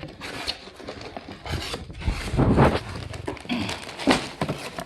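Cardboard box being opened and bags of Lego pieces handled: irregular rustling and small knocks, with a heavier thump about halfway through.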